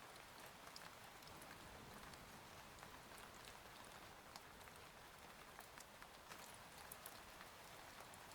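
Faint steady rain on a window: an even hiss with many scattered sharp drop ticks.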